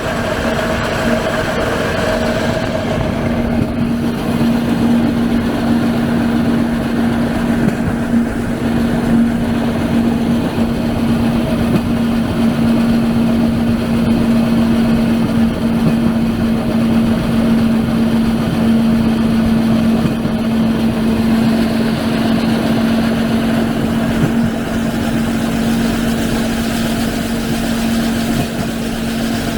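Small engine running steadily with a constant hum and a rough rumble, as from a motorized rail trolley moving along the track.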